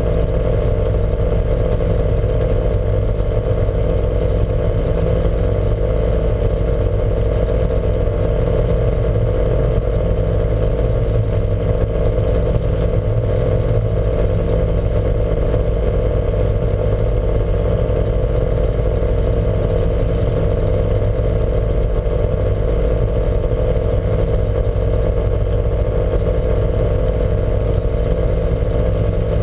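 Lancia Montecarlo race car's engine running steadily, with no revving.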